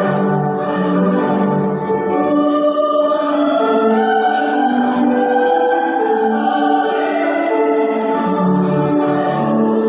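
A church vocal group singing in several-part harmony, the voices holding sustained notes and moving together from chord to chord.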